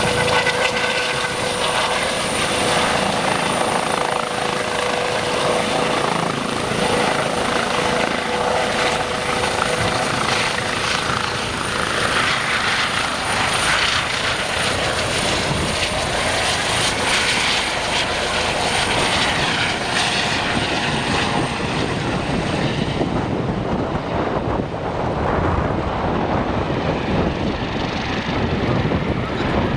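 Eurocopter EC135 T2 twin-turbine helicopter running, with steady rotor noise and a high turbine whine. The whine fades out about three quarters of the way through, while the rotor noise carries on.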